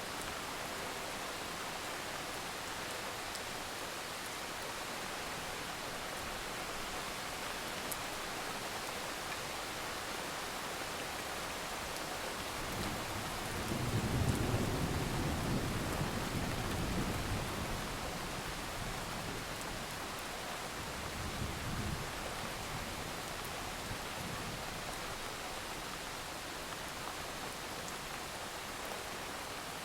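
Steady heavy rain falling, with a low roll of thunder swelling about halfway through and fading over a few seconds, then a second, fainter rumble shortly after.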